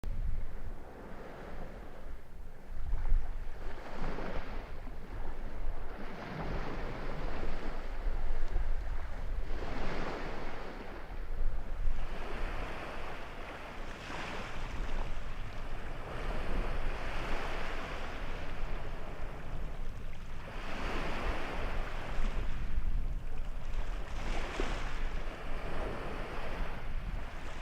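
Sea waves washing onto the shore, swelling and falling every few seconds, with wind buffeting the microphone.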